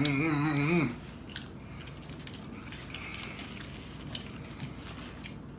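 A low voice hums a wavering tune for about a second and stops abruptly. After that come only faint eating sounds: soft clicks, crunches and mouth noises of chewing food.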